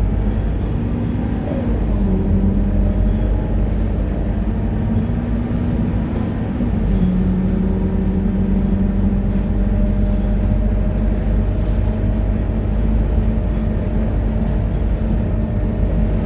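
Scania K230UB bus's diesel engine running under way, a steady low rumble whose engine note shifts down in pitch twice, about two seconds in and again about seven seconds in.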